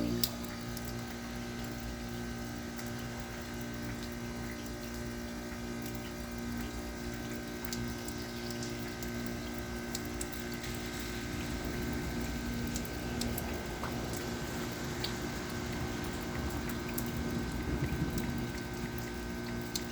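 Carrier Comfort 14 heat pump outdoor unit in its defrost cycle: a steady hum from the running unit under a hiss of water trickling and dripping off the melting coil, with scattered small ticks. The water sound grows a little stronger in the second half.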